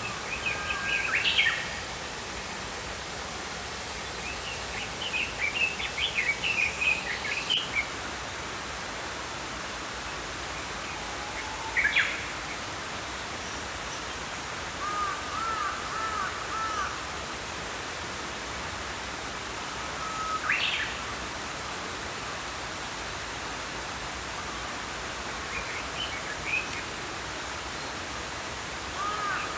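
Small birds chirping and twittering in scattered short bursts, some as runs of repeated rising-and-falling notes, over the steady rush of a flowing stream.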